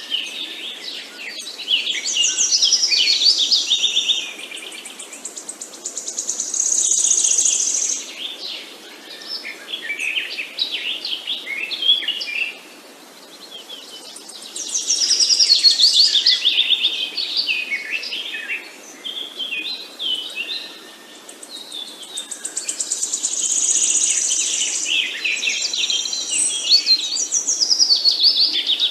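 Several songbirds singing and chirping at once, in overlapping bursts of trills and quick whistled phrases that swell and fade every few seconds over a faint steady background hiss.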